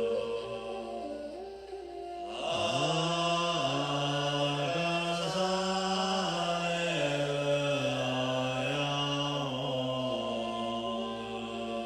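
A deep voice chanting a mantra slowly on long held notes that step up and down in pitch, swelling louder about two seconds in.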